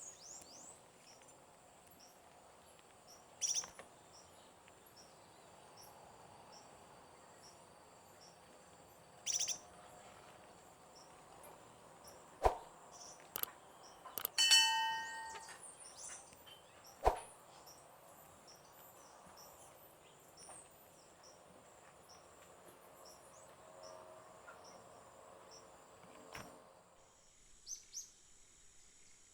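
Forest birds calling: a steady series of short high chirps about once a second, with a few louder bird calls over it and occasional sharp clicks.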